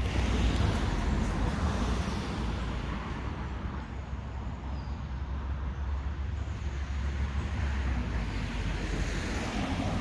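Road traffic going past, a steady rumbling noise that swells near the start and again near the end, with wind buffeting the microphone.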